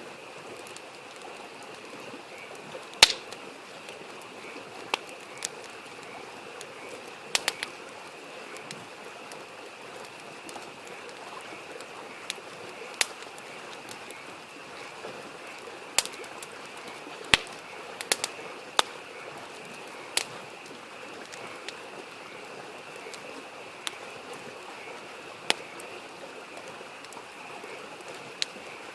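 Wood campfire crackling, with sharp, irregular pops every second or two, over the steady rush of a mountain creek and a constant high chorus of frogs.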